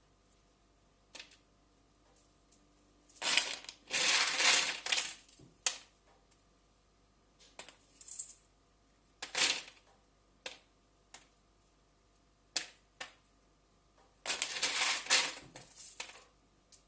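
Kitchen handling noise: clattering and rustling in a few bursts of a second or two, with scattered sharp clicks between them.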